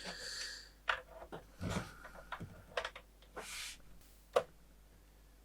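Irregular clicks and knocks of hands working oscilloscope gear, buttons and cable connectors, about half a dozen spread over four seconds, with the sharpest click about four and a half seconds in.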